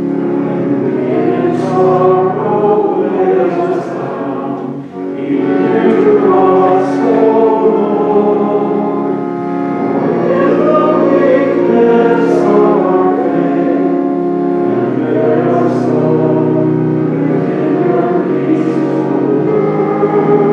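A choir singing a hymn with steady instrumental accompaniment, its sung consonants showing as sharp hisses every second or two.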